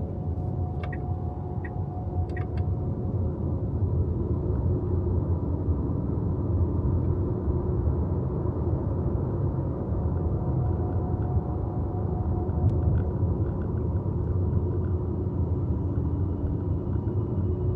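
Steady low rumble of tyre and road noise from a moving electric car, with several long held tones over it that fade in and out.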